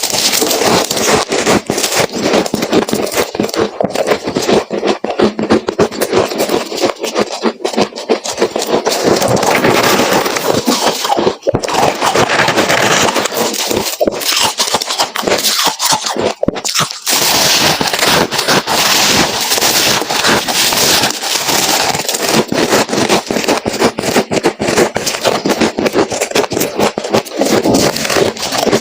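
Close-up crunching of freezer frost being chewed: dense, rapid crackling crunches with a couple of brief pauses.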